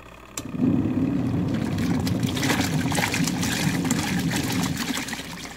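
Water pouring and splashing at a twin tub washing machine. It starts suddenly about half a second in and runs steadily for about five seconds, then tapers off.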